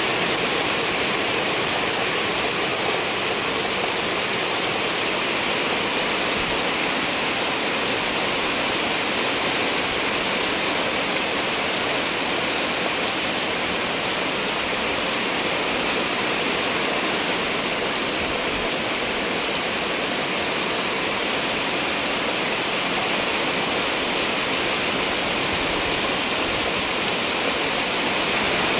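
Heavy rain falling steadily on wet pavement and puddles, an even hiss of drops splashing on standing water.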